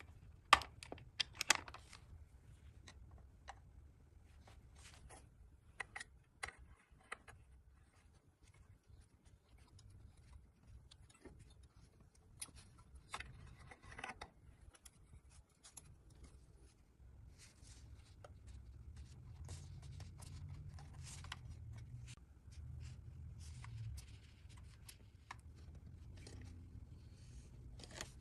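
Scattered light clicks, taps and short scrapes of small objects being handled, over a low steady hum.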